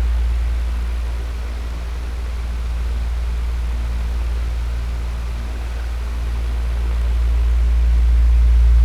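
Electric fan running: a steady rush of air over a low motor hum. It grows a little quieter through the middle and swells back near the end.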